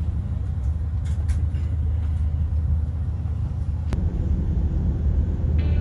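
Airliner cabin noise: a steady low rumble, with a sharp click a little before four seconds in.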